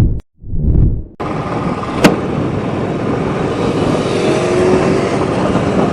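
A swooshing transition effect, then from about a second in the steady engine and road noise of a motorcycle being ridden, with one sharp click about two seconds in.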